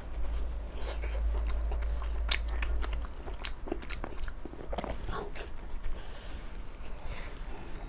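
Close-miked mouth sounds of biting into and chewing a glazed lamb brain: irregular wet clicks and smacks throughout. A low hum under them drops away about three seconds in.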